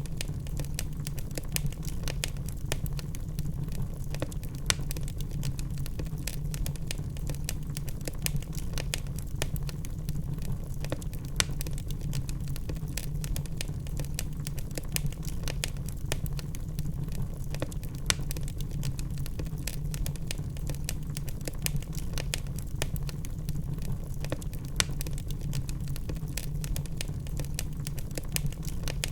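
Log fire crackling: a dense run of small ticks and pops over a steady low rumble, with a few louder snaps standing out every several seconds.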